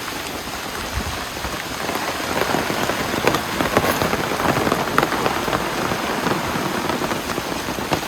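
Heavy rain falling, a dense steady spray of drops striking close by, growing a little louder about two seconds in.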